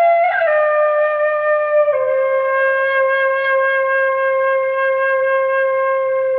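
Irish flute played solo: a couple of short notes with a quick sliding ornament, then, about two seconds in, a lower note held steadily to the end.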